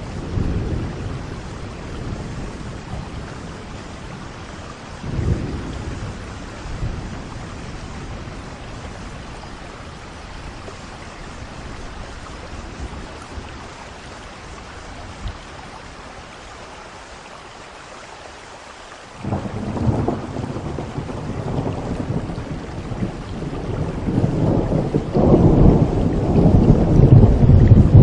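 Steady rain with thunder rumbling. A brief low roll comes early, a louder peal breaks in suddenly about two-thirds of the way through, and it builds to its loudest near the end.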